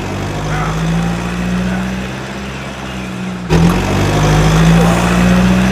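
A vehicle engine running steadily with a low hum, jumping suddenly louder about three and a half seconds in.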